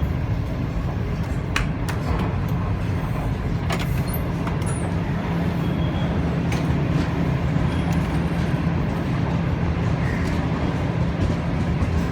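Passenger train coach running on the track as it pulls out of the station: a steady low rumble of wheels and running gear, with a few sharp clicks scattered through.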